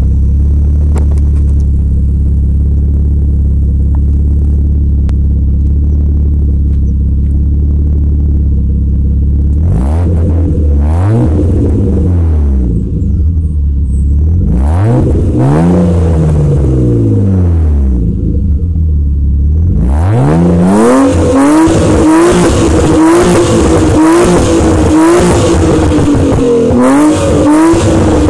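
BMW E36 320i's M50B20 2.0-litre inline-six running through its exhaust: a steady idle, then two slow revs that rise and fall about ten and fifteen seconds in. Near the end it is blipped rapidly over and over, the pitch jumping up and down about once a second.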